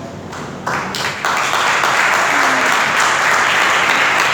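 Congregation applauding loudly: the clapping builds up about a second in and then holds steady.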